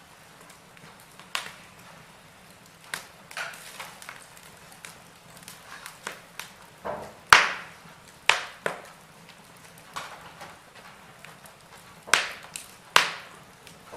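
Wood fire burning in a fireplace, crackling with irregular sharp pops and snaps; the loudest pop comes about halfway through, with two more strong ones near the end.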